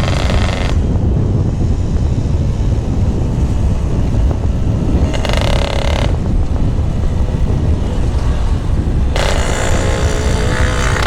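Yamaha RX-King two-stroke motorcycle with a GRT18 K26 aftermarket exhaust, being ridden. The higher exhaust sound cuts out about a second in, returns briefly around five seconds, and comes back near the end, over a constant low rumble.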